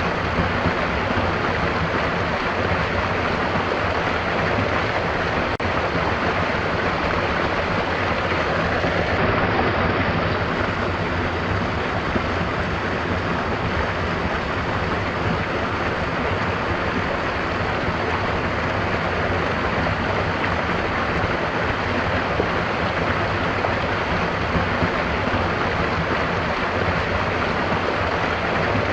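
Stream water rushing and splashing steadily.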